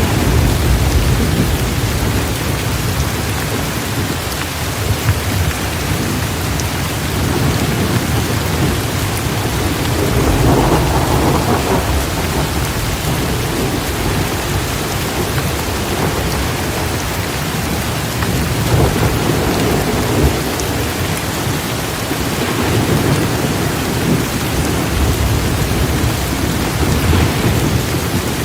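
Torrential rain pouring steadily, with thunder rumbling low several times, most strongly about ten seconds in and again near twenty seconds.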